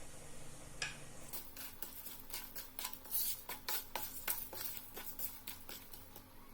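Kitchen utensils clinking and tapping against cookware: a single click about a second in, then a run of irregular sharp clicks, several a second, that dies away near the end.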